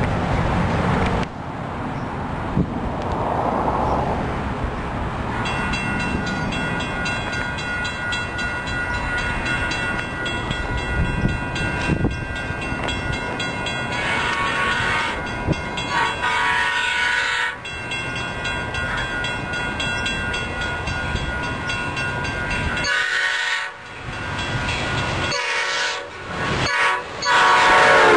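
Amtrak Capitol Corridor passenger train approaching with its horn sounding in steady blasts over several seconds. Near the end the bilevel cars roll past close by, wheels clattering over the rails.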